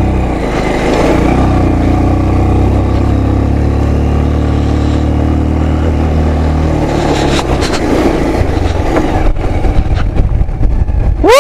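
Motorcycle engine running steadily, then cutting out about seven and a half seconds in, leaving wind and handling noise. A loud pitched tone that rises and falls starts right at the end.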